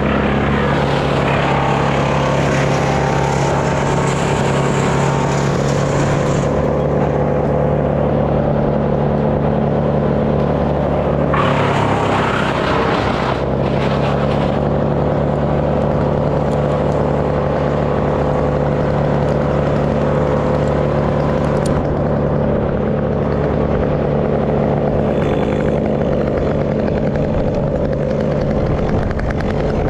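An engine running steadily at idle, its pitch holding level apart from a brief dip about twelve seconds in.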